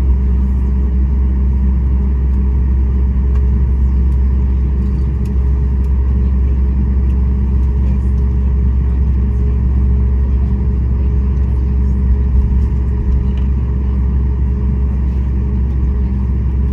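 Steady low rumble of a Boeing 737 MAX 8's CFM LEAP-1B engines and airflow, heard inside the passenger cabin.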